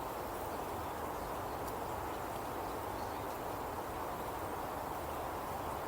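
Steady outdoor ambience: an even rushing noise that holds at one level throughout.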